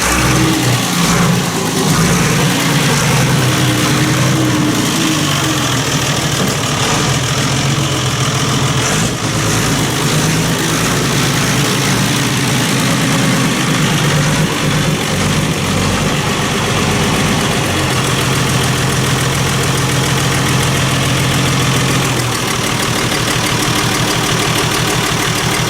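Tractor engine running, its note rising and falling over the first part, then holding a steady, slightly lower note for a few seconds near the end.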